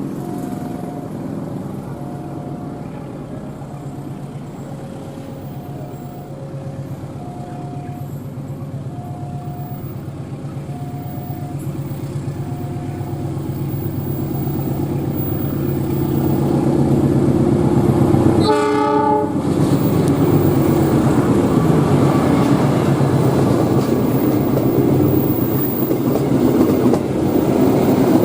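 Diesel train approaching and growing louder, its engine drone steady, with an alternating two-note beeping over the first half. A single short horn blast sounds about eighteen seconds in, then the loud rumble and clatter of the train passing.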